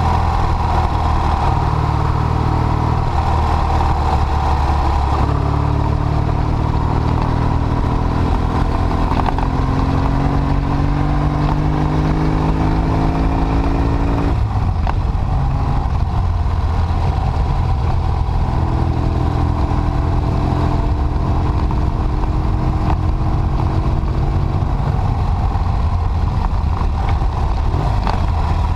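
Triumph Bonneville parallel-twin engine running while the motorcycle is ridden, heard from on the bike. Its note climbs steadily for several seconds under acceleration, drops suddenly about halfway through, then runs on at a steady pitch.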